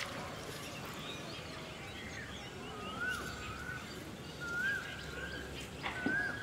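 Birds calling: a short whistled note that dips and rises, repeated three times about a second and a half apart, with fainter higher chirps among it, over steady outdoor background noise.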